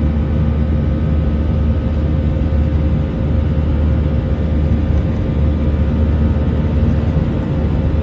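Jet airliner heard from inside the cabin: a steady, loud low rumble of the engines and airflow, with a faint constant hum over it.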